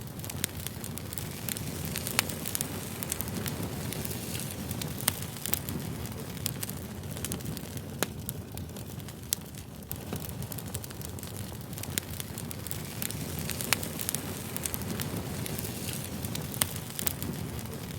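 Wood campfire burning: a steady low rumble of flames with irregular sharp crackles and pops of burning wood.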